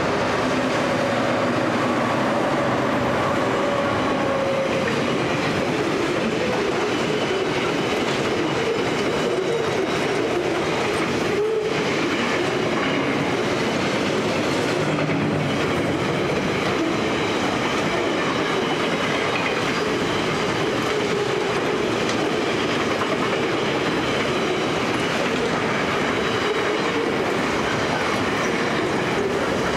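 A heavy freight train passing close by. In the first few seconds its GT46C-ACe diesel-electric locomotives run with a steady low drone that fades as they go by. Then a long string of boxcars rolls past with continuous wheel-on-rail noise.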